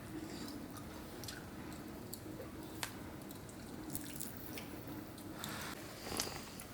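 Wood fire in a fireplace crackling, with faint irregular pops and snaps and a slightly louder pop near the end.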